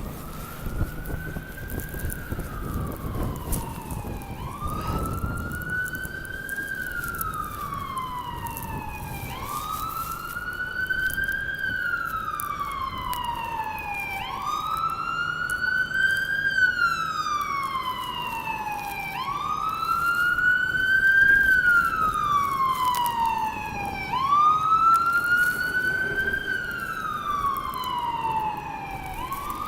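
Emergency vehicle siren on a slow wail, climbing quickly and then sliding down, about once every five seconds. Steady street noise lies underneath.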